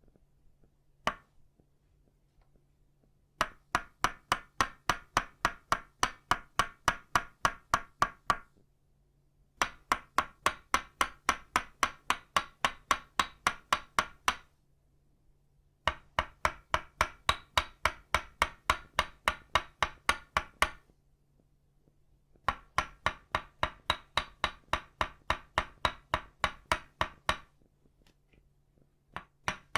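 Tok Sen wooden mallet made of itauba wood striking a wooden stake, giving rapid, even, hollow wooden knocks of about four to five a second. The knocks come in runs of about five seconds separated by short pauses, after a single knock about a second in.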